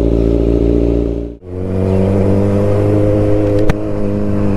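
Kawasaki Z900 inline-four through an Akrapovic titanium full-system exhaust, running at a steady engine speed. The sound dips away briefly about a second and a half in and comes back on a different steady note, with a short click later on.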